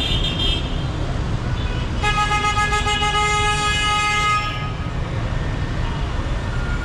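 Busy city street traffic rumbling steadily, with a vehicle horn held for about two and a half seconds from about two seconds in, and a few short horn beeps right at the start.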